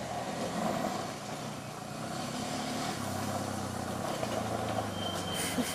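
A motor vehicle's engine running steadily, with a short burst of noise near the end.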